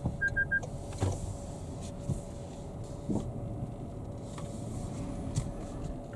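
Low steady vehicle rumble with a faint steady hum. A quick triple electronic beep sounds right at the start.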